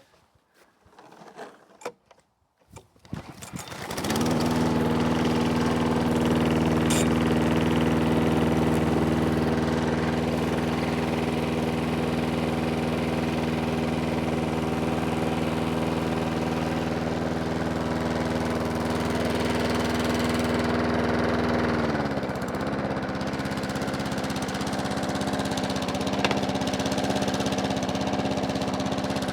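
Pull-start of a Sovereign petrol push lawnmower's Briggs & Stratton engine: a few quiet rattles of the recoil cord, then the engine catches about four seconds in and runs steadily at almost full throttle. About three-quarters of the way through its pitch dips a little and it settles slightly lower.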